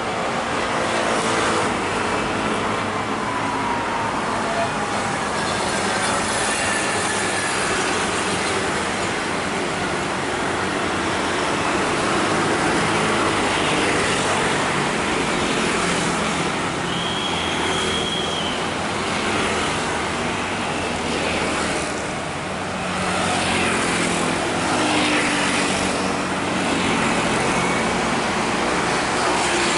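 Steady street traffic noise, with a brief high squeal about halfway through.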